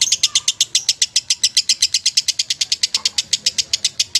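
Lovebird singing a long, unbroken chattering trill of rapid sharp chirps, about a dozen a second, high-pitched and steady.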